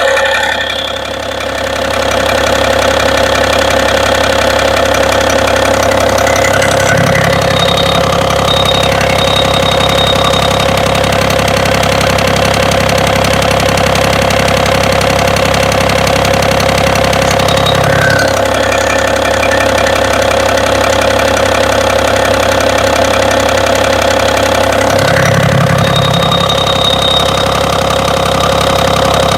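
BMW engine running at a steady speed with a knock, the engine knock the owner is showing. A lower hum comes in about seven seconds in and drops out again near eighteen seconds.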